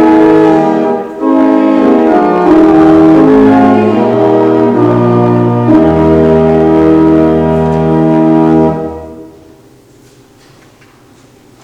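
Church organ playing a closing voluntary in sustained chords, ending on a long held chord over a deep pedal note that stops about nine seconds in. Quiet church room tone follows.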